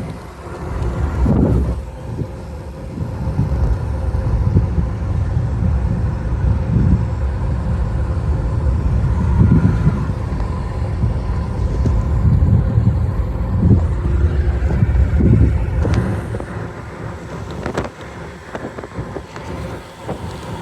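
Low, gusty rumble of road and wind noise from a moving vehicle, swelling and fading, with a couple of sharp clicks near the end.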